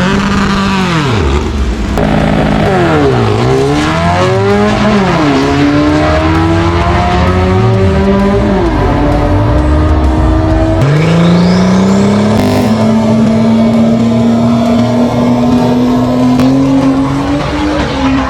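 Drag-racing engines, likely air-cooled Volkswagens, revving hard. The pitch climbs and drops several times in the first few seconds, as at gear shifts, then rises steadily about halfway through and holds high as a car accelerates.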